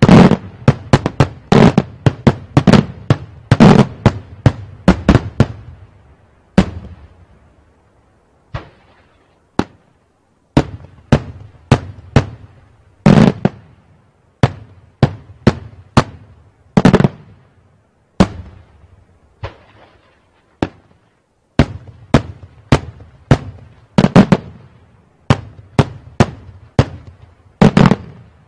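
Daytime aerial firework shells exploding overhead: a rapid run of loud bangs, each with a short echoing tail. After about six seconds the bangs thin to a few isolated reports, then pick up again in irregular volleys.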